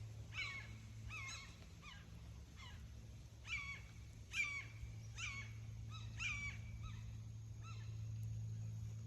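Wild birds calling overhead: a dozen or so short calls, about one a second at an uneven pace, some louder than others.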